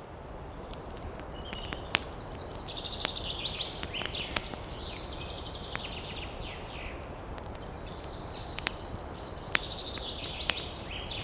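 Campfire crackling, with irregular sharp pops over a steady low rush, while birds chirp and trill in the background.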